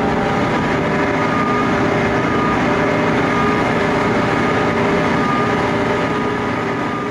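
Cog railway train running, heard from on board: a steady noise of engine and track with a few held whining tones, starting to fade near the end.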